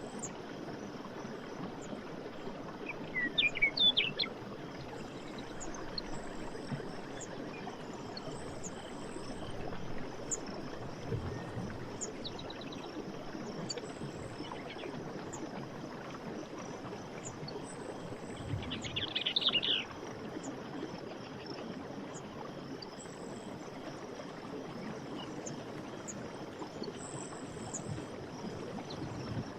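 Steady rush of running water in a forest with birds calling: two loud flurries of chirps, about three seconds in and about two-thirds of the way through, and short faint high chirps repeating throughout.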